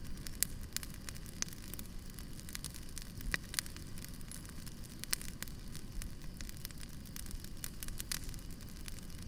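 Bonfire crackling: irregular sharp pops and snaps, several a second, over a steady low rumble of burning wood.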